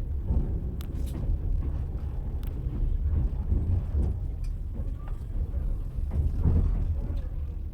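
Train wheels running over the rails: a steady low rumble with a few sharp clicks.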